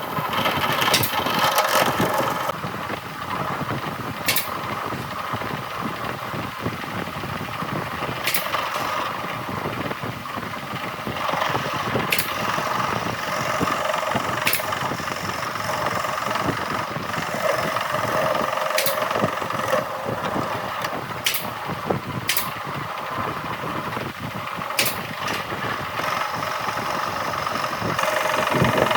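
A woodworking power tool's motor running steadily, with sharp knocks or clicks every few seconds. The tone of the running changes a few times, as at cuts between clips.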